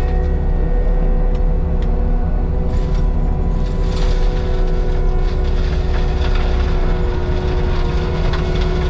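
Heavy Caterpillar diesel land-clearing machine running under steady work, a deep engine rumble with a steady high whine over it and a few scattered knocks and clicks.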